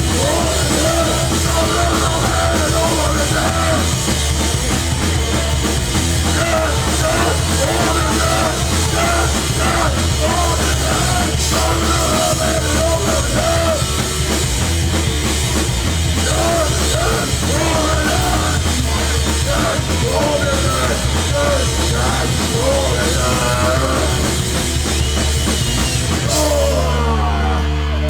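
Hardcore punk band playing live and loud, with drum kit and distorted guitars. About 26 seconds in, the busy playing gives way to a held, ringing chord with a falling pitch slide.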